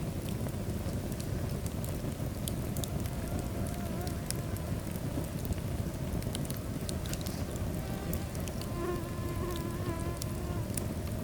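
Wood fire burning in a fireplace: a steady low rumble of flames with scattered sharp crackles and pops, and a faint thin wavering whistle for a few seconds near the end.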